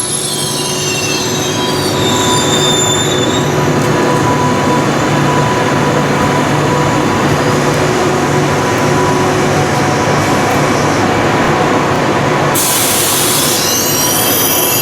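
SBB RABe 503 (ETR 610) electric tilting train rolling slowly through the station: steady running noise with a motor whine, and high wheel squeal on the curves near the start and again near the end. A short burst of hiss comes about a second before the end.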